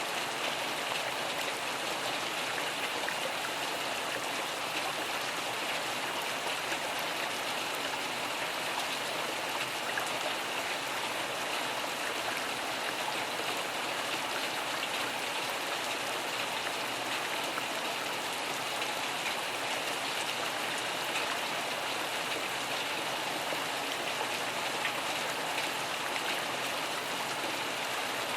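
Steady rainfall, an even hiss of many drops with no single strike or thunderclap standing out.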